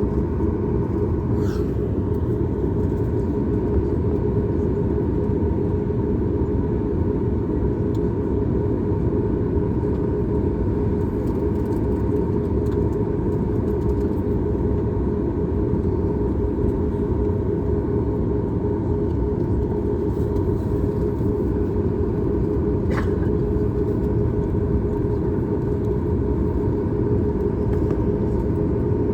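Steady roar of a Boeing 737 MAX 8's CFM LEAP-1B jet engines and airflow heard inside the passenger cabin, with a steady hum running through it.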